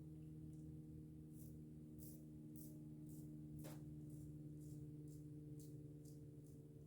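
Near silence: a steady low electrical hum, with faint short scratchy ticks about twice a second.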